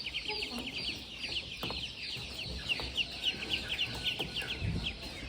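Penned chickens calling: a steady chorus of short, high peeping calls, several a second, with clucking underneath.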